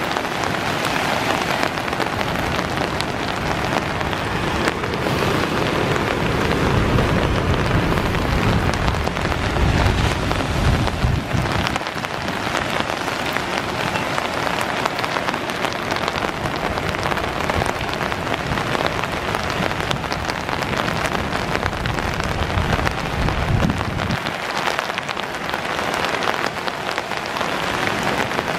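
Heavy rain hissing steadily, blended with the rush of floodwater pouring through a dam's open spillway gates. A low rumble swells and fades under it, strongest in the first twelve seconds.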